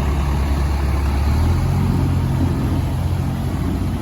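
1999 E-One Cyclone II fire engine's diesel engine running as the truck drives off, a loud low engine note that changes pitch about one and a half seconds in.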